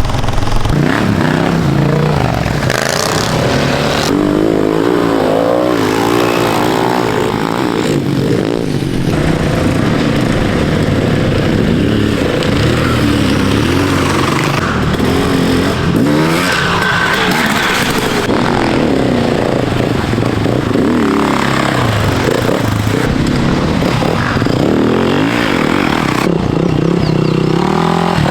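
Off-road motorcycle engines revving up and down over and over as the bikes accelerate, shift and back off.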